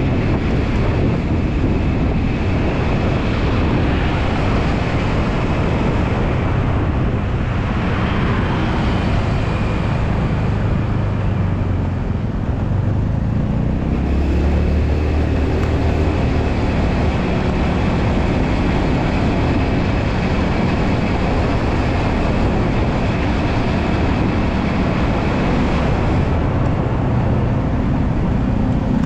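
Honda Beat scooter's carburetted single-cylinder engine running on the move, under heavy wind noise on the microphone. About twelve seconds in, the engine note drops, then climbs steadily for a few seconds.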